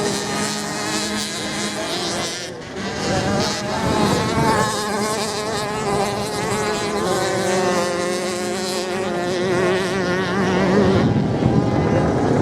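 Racing motorcycle engines buzzing and revving at once, their pitches rising and falling as the bikes accelerate and ease off, with a brief dip in level about two and a half seconds in.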